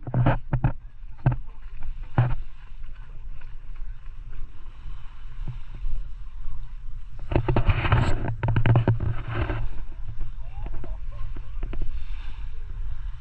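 A steady low engine rumble with bursts of rushing, wind-like noise, the loudest stretch about seven to ten seconds in.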